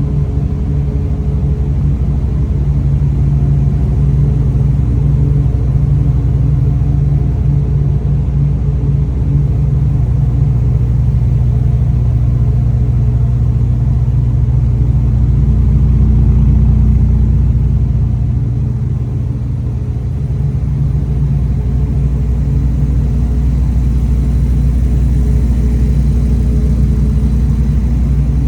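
A car engine idling with a steady low rumble, swelling slightly a little past halfway and dipping briefly soon after.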